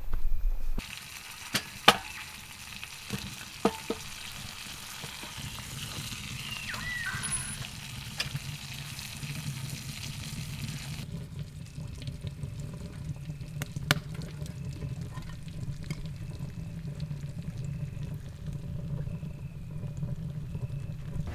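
Fish frying in a pan: a steady sizzle with a few sharp knocks. About halfway through, the high hiss drops away and a lower steady sound carries on.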